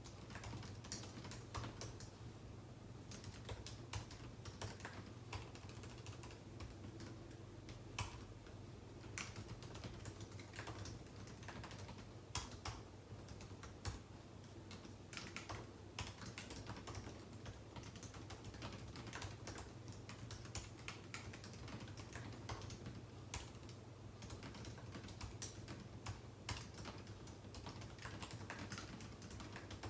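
Typing on a computer keyboard: a steady run of irregular keystroke clicks, with a low steady hum underneath.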